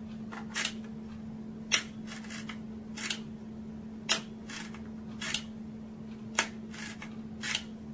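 Ankle exoskeleton clutch cycling: the pawl snaps against the steel ratchet with a sharp click about once a second, each click followed by a short, softer rattle as the pawl disengages, repeating with every step cycle. A steady low hum runs underneath.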